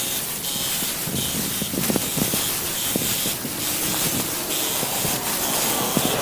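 Water spraying onto a car's bodywork, a steady hiss that surges and eases in short pulses.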